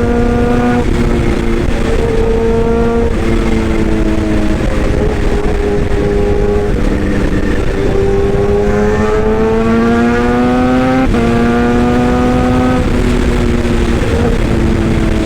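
Excavator engine running under a steady rumble, with a loud whine that shifts up and down in pitch as the machine works and rises slowly about eight to eleven seconds in.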